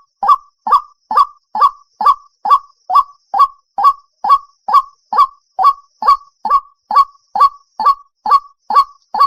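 White-breasted waterhen call, a short honking note repeated evenly about twice a second, played as a lure to draw waterhens out of cover.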